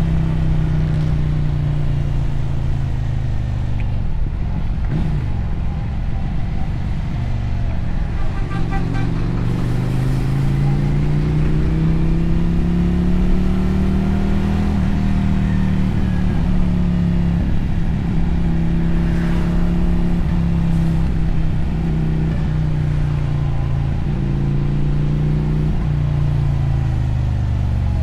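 Motorcycle engine and exhaust under way. The revs fall over the first few seconds, climb steadily to a peak about halfway through, hold fairly steady, then drop again near the end.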